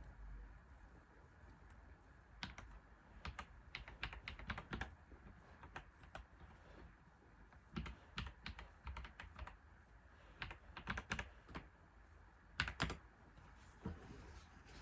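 Typing on a computer keyboard: runs of key clicks with short pauses between them, starting about two seconds in.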